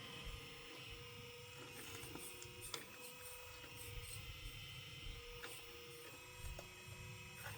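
Small electric gear motors of a 1/12-scale homemade metal RC excavator whining steadily as it works, with a few sharp metal clicks about three, five and seven seconds in.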